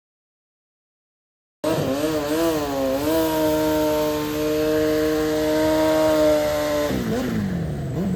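Dead silence for about the first second and a half, then a racing vehicle's engine cuts in. It revs unevenly for about a second, holds steady at high revs for about four seconds as it runs down the strip, and drops in pitch near the end.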